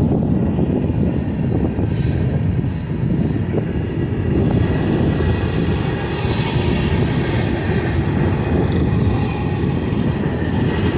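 Freight train passing: a loud, heavy rumble of wheels on rail, with a steady high whine added from about four seconds in.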